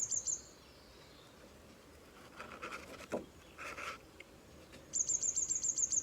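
A small songbird singing a rapid, high-pitched trill of about ten notes a second, heard at the start and again for about a second near the end. In between come two brief soft rustles.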